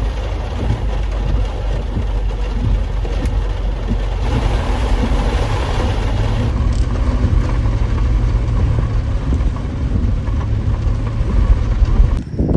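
Steady rumble and road noise of a car driving.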